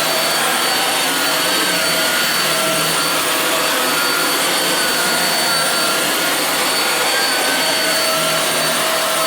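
Hoover WindTunnel Air bagless upright vacuum cleaner running steadily on carpet: a continuous motor hiss with a steady whine, its pitch wavering slightly as the cleaner is pushed along.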